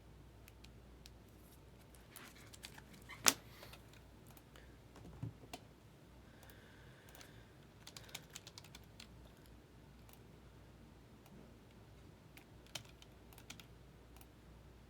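Computer keyboard typing: scattered, faint key clicks, with one sharper click about three seconds in.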